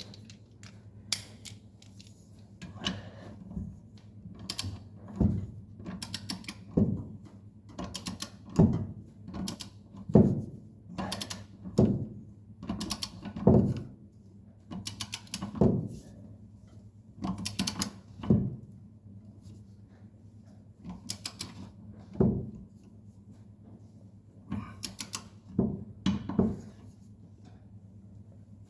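A ratchet wrench tightening the blade bolts on a mower deck: bursts of short ratcheting clicks, stroke after stroke, with brief pauses between.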